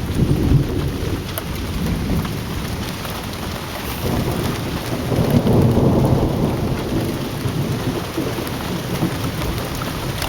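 Thunder rumbling over steady falling rain during a close thunderstorm; the rumble swells about halfway through and then slowly dies back.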